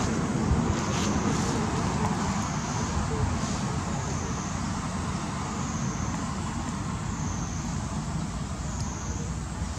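Steady outdoor rumble like road traffic or wind on the microphone, with a thin high whine that wavers up and down about every second and a half.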